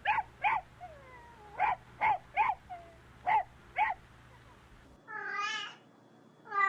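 An animal calling: a run of short, sharp calls, several in quick pairs. Then, after a change of recording about three-quarters of the way in, comes a longer, drawn-out call.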